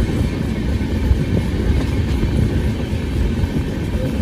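Passenger train running at speed: a steady, deep rumble of the wheels on the track, unbroken throughout.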